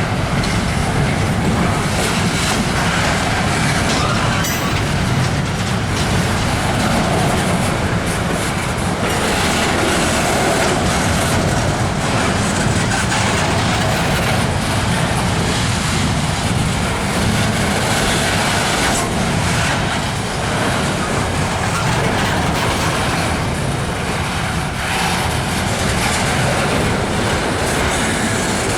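Norfolk Southern freight train rolling past, a steady rumble with the wheels clacking over rail joints.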